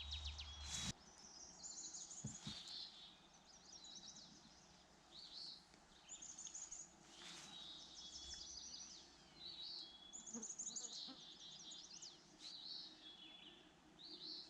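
Songbirds singing: short, high trilled phrases repeating every second or two over a faint outdoor background. A single sharp click comes about a second in.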